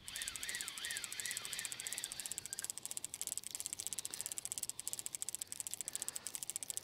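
Fishing reel being cranked fast to bring in a hooked trout: a rapid, even clicking. For the first couple of seconds a whine rises and falls with each turn of the handle.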